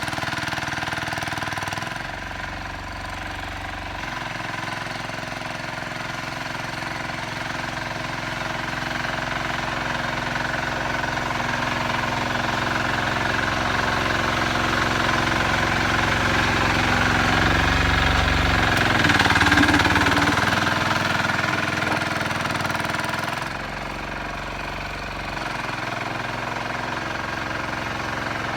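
Sears 8XL garden tractor's engine running steadily while plowing snow. It grows louder toward the middle and drops back suddenly about two-thirds of the way through.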